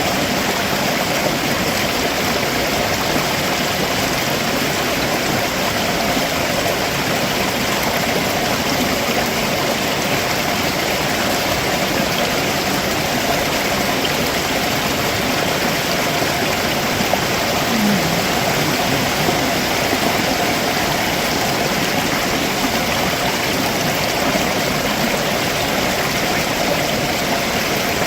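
Steady rush of a stream flowing over rocks, the sound of a waterfall's outflow: an even, unbroken wash of water noise.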